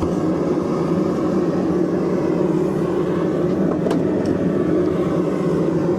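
Forge running: a steady rushing noise that starts abruptly and holds level, heating the steel bar.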